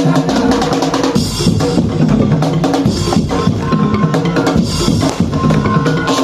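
Madurese tong-tong (ul-daul) percussion ensemble playing loudly: a fast, dense run of drum and percussion strikes under sustained melodic notes.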